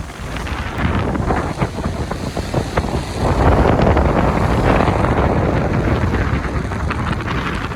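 Wind buffeting the microphone aboard a moving river tour boat, over the boat's steady running noise; the wind swells louder for a few seconds in the middle.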